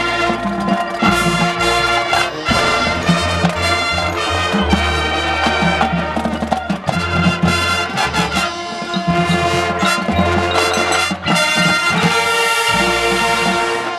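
High school marching band playing, with brass carrying the music over sustained low bass notes and sharp percussion strikes.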